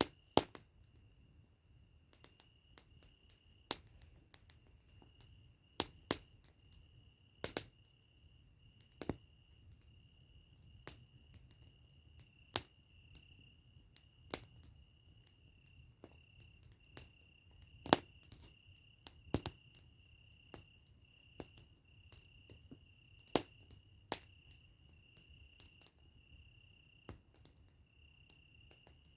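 Wood fire crackling: irregular sharp pops and snaps, a few much louder than the rest, over a faint steady high-pitched tone.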